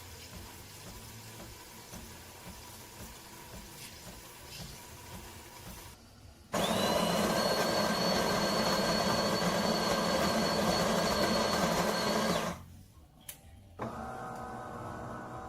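De'Longhi Dinamica Plus espresso machine working through a flat white cycle: a loud steady machine noise with a high whine starts abruptly about six seconds in, runs for about six seconds and cuts off. Quieter steady machine sounds come before and after it.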